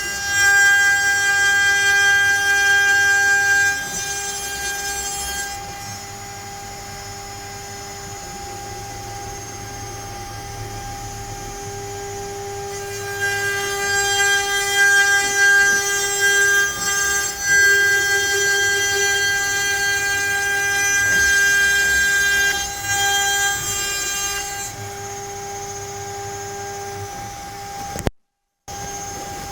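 CNC router spindle whining at a steady pitch while the bit carves letters into pine. The sound grows louder and rougher in two stretches, for the first few seconds and again from about 13 to 25 seconds in, as the bit cuts into the wood. It drops out for a moment near the end.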